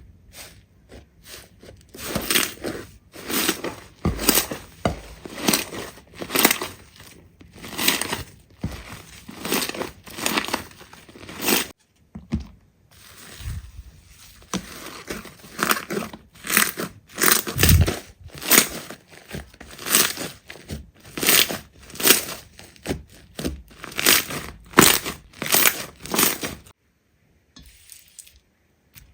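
Slime being squeezed and pressed by hand, making a run of short squishing and crackling sounds about one to two a second, with brief pauses about twelve seconds in and near the end.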